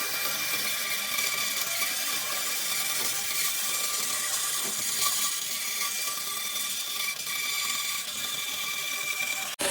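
A power tool working wood, running steadily with a continuous high whine and hiss.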